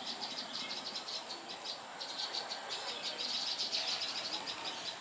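Steady chorus of rapid, high-pitched chirping, many chirps a second, loudest a little past the middle.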